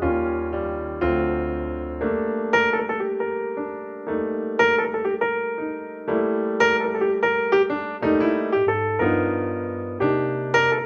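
Solo piano background music: slow chords changing about every two seconds under a light melody of quicker notes.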